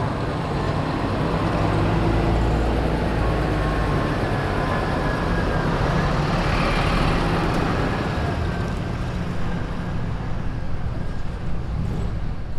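Car engines and exhausts running as cars drive slowly out of a car meet, with one car's noise swelling as it passes close around the middle.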